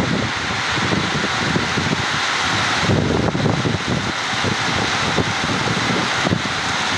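Steady rain falling, a continuous hiss, with gusts of wind buffeting the microphone in uneven low rumbles.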